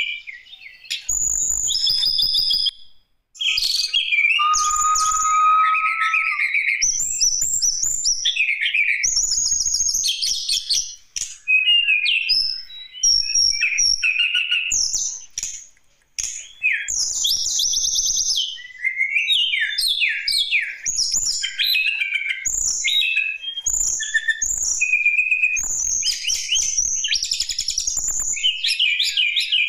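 Tledekan gunung singing continuously in full voice: a long, varied run of fast chirps, trills and whistled notes, broken by brief pauses.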